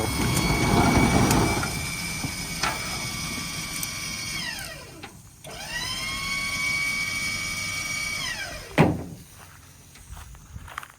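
Rugby electric-hydraulic dump hoist pump motor whining steadily as it lifts the loaded bed. It winds down about four seconds in, starts again a second later and winds down once more near the end, followed by a sharp knock. The owner wonders whether the hoist is low on fluid.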